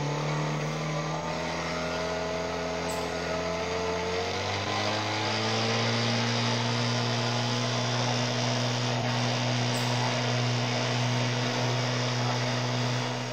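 A small boat's motor running steadily at cruising speed, its pitch rising slightly about four to five seconds in and then holding.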